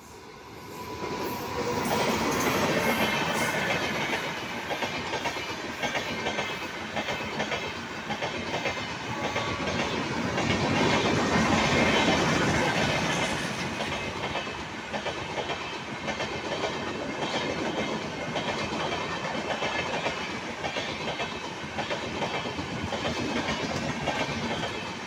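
Superfast express train passing at speed behind an electric locomotive: the sound swells quickly as the locomotive arrives about two seconds in, then a long rake of coaches rumbles by with steady clickety-clack over the rail joints, loudest around the middle.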